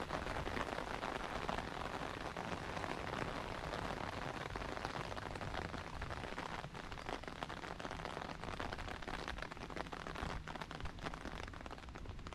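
Steady rain falling, a constant hiss of many small drop impacts, with individual drops ticking more distinctly in the second half.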